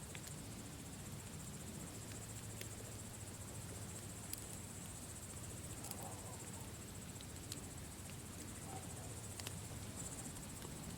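Campfire crackling, with occasional sharp pops every couple of seconds over a low steady rumble, while crickets trill steadily in the background.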